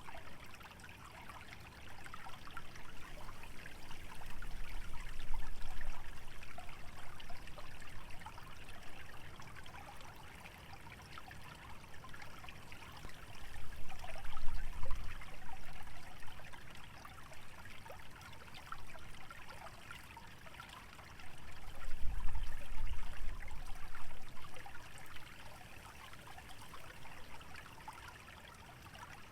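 Small stream trickling and babbling steadily over shallow water through wetland vegetation. Three times, a low rumbling swell builds and fades, the wind gusting through the dormant plants and over the microphone.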